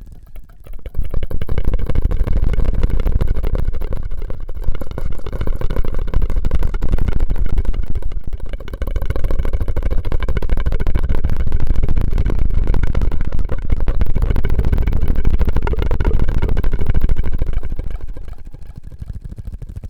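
Close-miked mouth and drinking-straw ASMR sounds: a loud, dense, low noise that starts about a second in, dips briefly near the middle and fades out near the end.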